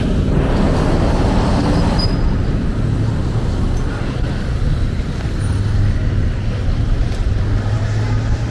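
Street traffic: passing vehicles' engines and tyres making a steady low rumble.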